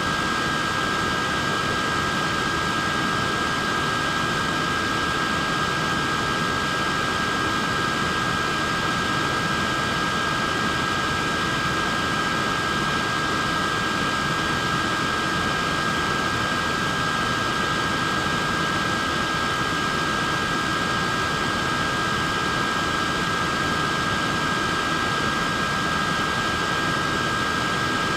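Battery-powered neck fan running steadily: an even rush of air with a high, constant motor whine in two close pitches.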